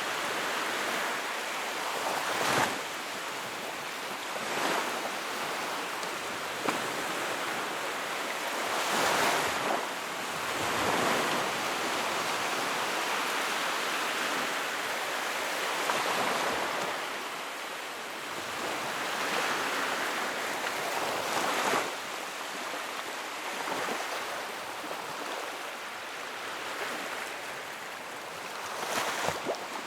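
Wood fire in a fireplace burning with a steady, rushing hiss that swells and ebbs, and a few sharp crackling pops a few seconds apart.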